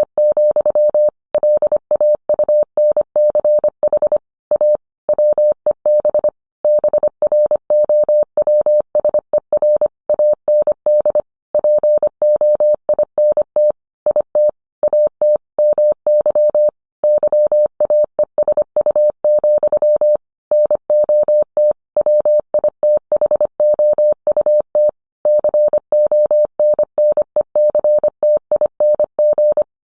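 Morse code: a single steady mid-pitched tone keyed on and off in quick dots and dashes, with short pauses between words.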